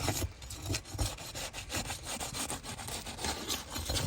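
Steel roofing flat bar scraping and prying under a dimensional asphalt shingle to break its sealant strip, in a quick, irregular run of short scraping strokes.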